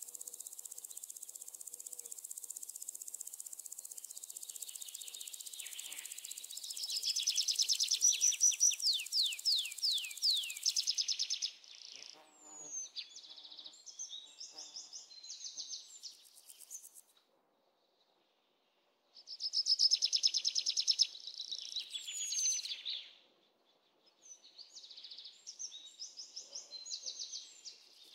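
Birds singing in repeated phrases of rapid high trills and short downward-sweeping whistles, over a steady high hiss in the first few seconds. The song drops out to silence for about two seconds a little past the middle.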